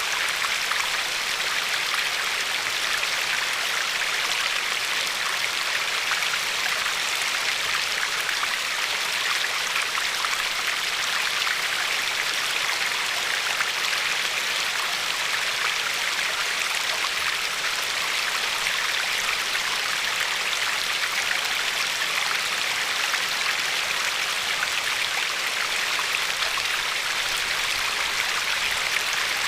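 River water flowing and lapping over a pebbly shore: a steady, even rush with a fine splashing texture and no changes.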